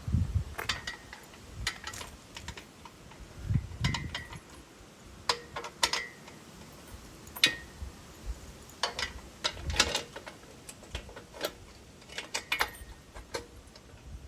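Irregular metallic clinks and knocks from steel tools and engine-stand hardware being handled, some ringing briefly, with a few dull low thumps between them.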